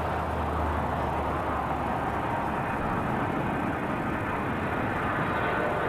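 Steady distant traffic noise, with a low hum that fades out about a second and a half in.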